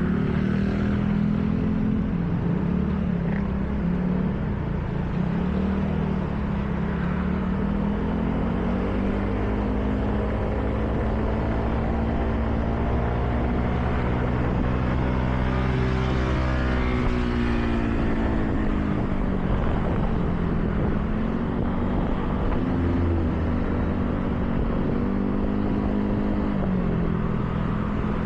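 Car engine running while driving, its pitch rising and falling several times as the speed changes, over a steady hiss of tyres on wet road.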